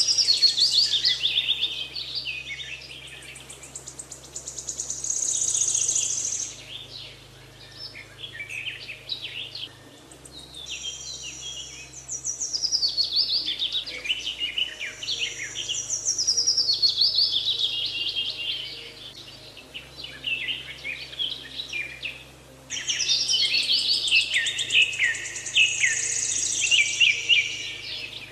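Songbirds singing in repeated bursts of rapid chirps and trills, each a few seconds long, with short pauses between.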